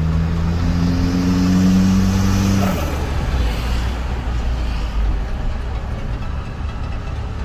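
Engine of a Greddy-turbocharged Suzuki Jimny revving, its pitch rising slowly for a little under three seconds, then the throttle closing and the note dropping to a lower, rougher rumble for the rest of the time.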